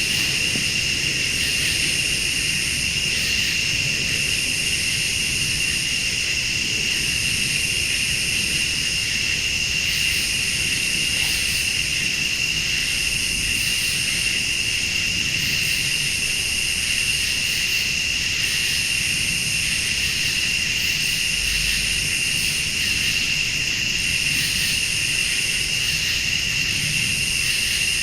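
Night chorus of crickets and late-summer insects: a steady high trill, with a still higher insect call that comes in phrases about two seconds long, roughly every three seconds. A low steady rumble lies underneath.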